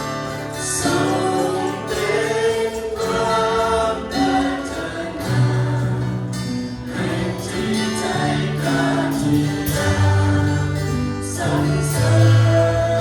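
Congregational worship song: a group of voices singing over a band with a moving bass line and cymbal strokes.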